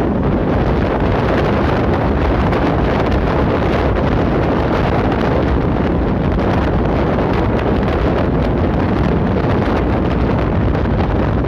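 Steady wind rushing over the microphone, a loud even roar without breaks.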